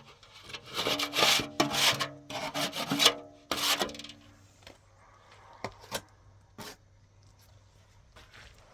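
A run of rough rubbing or scraping strokes for the first four seconds, then a few scattered light knocks.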